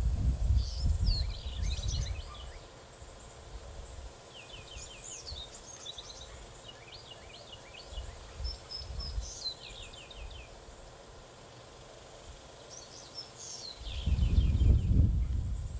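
Small birds chirping and trilling at a backyard feeder, many short high notes and quick rapid-note trills throughout. A louder low rumble in the first two seconds and again near the end.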